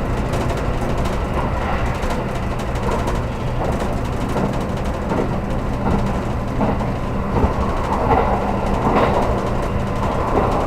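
Steady rumble inside the passenger car of a 783 series electric train, with a few faint knocks.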